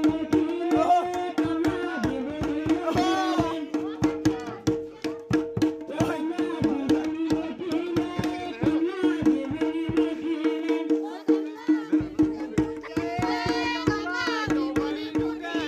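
Kumaoni jhoda folk music: a hand drum beaten in a fast, even rhythm under a steady held drone, with voices singing the song in phrases.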